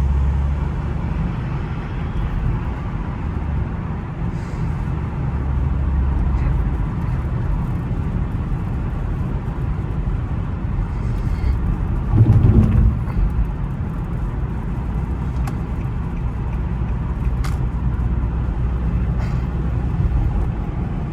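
Infiniti car at highway speed, heard from inside the cabin: a steady low engine and road drone. About twelve seconds in it swells briefly louder.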